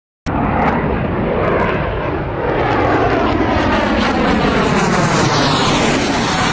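Loud aircraft engine noise of a plane passing close by, cutting in suddenly about a quarter second in, its pitch pattern slowly shifting as it goes by.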